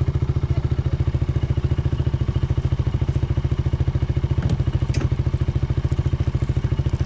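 Polaris RZR side-by-side's engine running steadily with an even, fast pulse, with a couple of faint knocks about four and a half seconds in.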